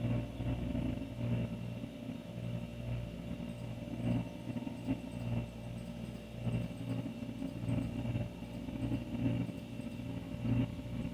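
Older refrigerator running, its compressor giving a steady low hum that swells gently in loudness about once a second.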